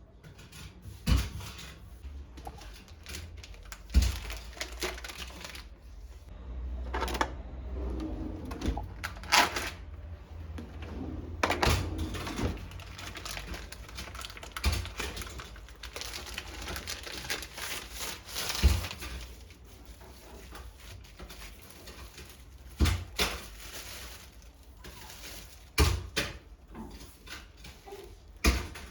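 Scattered knocks and clicks from objects being handled and set down in a small room, about ten sharp ones spread out, with rustling between them.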